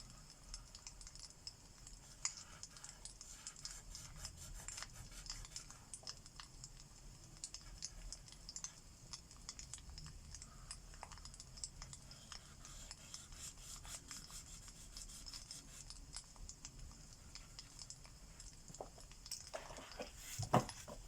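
Alcohol marker tips rubbing and scratching across paper in short, quick strokes, with a faint crackling fireplace underneath. A few louder knocks come near the end.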